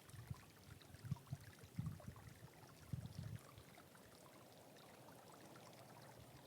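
Very faint outdoor ambience: a small stream's steady wash, with light wind bumping the microphone in short low gusts during the first three and a half seconds.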